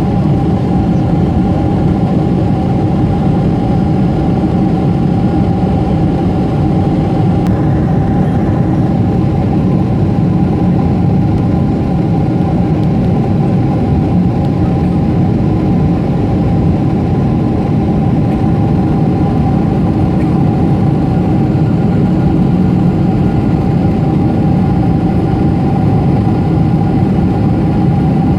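Steady engine and airflow noise inside the cabin of a Boeing 747-8, heard at a window seat: a constant low hum with a few faint steady tones over it. The four GEnx-2B turbofans hold even thrust throughout.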